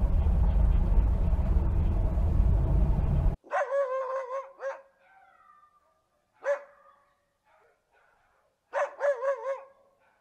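A loud, steady low rumbling noise cuts off suddenly about three seconds in. Then a dog gives high, wavering yelping whines in three bursts: several together, one alone, then several more near the end.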